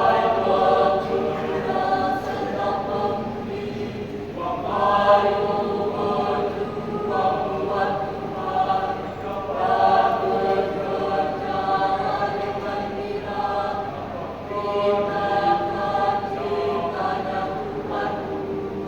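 Youth choir singing in parts, in long held phrases with brief breaths between them.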